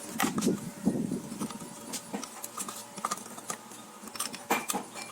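Irregular light clicks and knocks of metal parts and tools being handled during restoration work.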